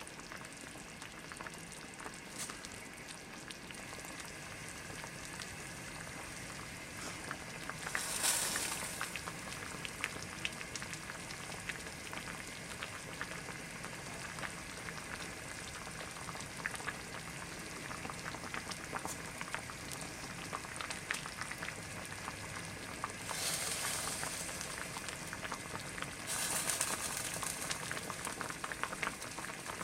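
Doenjang jjigae boiling in a ttukbaegi earthenware pot, bubbling and crackling steadily, with louder hissing spells about eight seconds in and twice in the last third.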